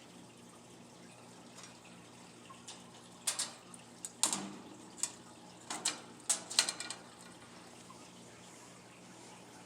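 A cluster of sharp clicks and short rattles of a food bowl being fitted into a wire bird cage, over a faint steady hum.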